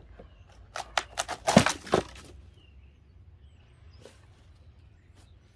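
A hammer knocking and breaking into old wooden siding and wall boards: a quick run of sharp knocks and cracks about a second in, then a couple of lone faint clicks.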